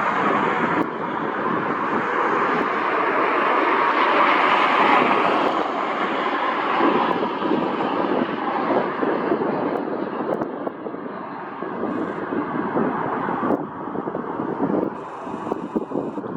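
Jet engines of an arriving United Express regional jet passing by, a broad rushing roar that grows duller and fades over the second half as the aircraft moves away.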